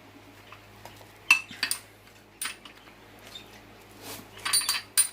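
Hand wrench clinking against metal while the oil pan bolts of an engine are tightened: a few separate clinks, then a quicker run of clinks near the end.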